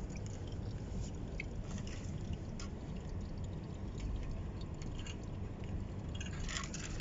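Used engine oil draining from the car's oil pan in a steady stream into a catch container, with a few faint ticks.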